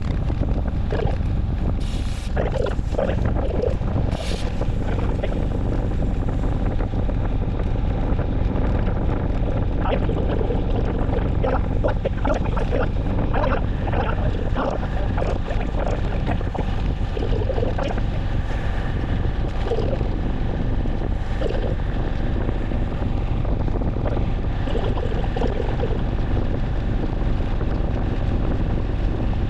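Wind rumbling steadily on the microphone of a moving rider, with faint scattered voices of other riders in the background.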